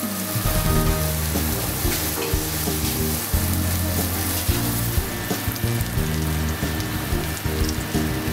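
Hearts of palm, sweet potato and sun-dried tomatoes sizzling as they sauté in oil in a frying pan, with background music.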